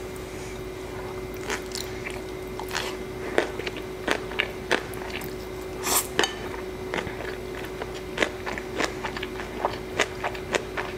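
Close-up mukbang eating sounds: a person chewing black bean noodles and gyozas, with many sharp, irregular mouth clicks starting about a second and a half in. A steady faint hum runs underneath.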